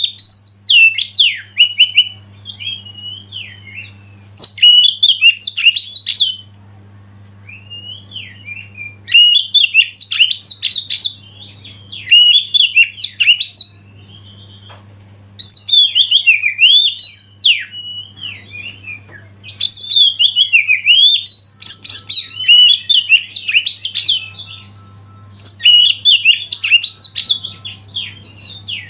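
Oriental magpie-robin (kacer) singing: several bursts of rapid, varied whistled phrases separated by short pauses. A faint, steady low hum runs underneath.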